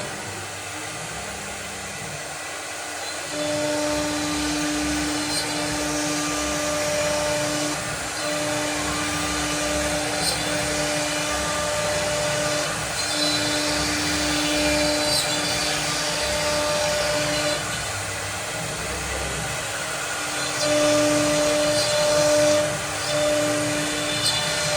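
CNC machine running a cut: a steady motor noise with a steady tone that starts and stops every one to two seconds.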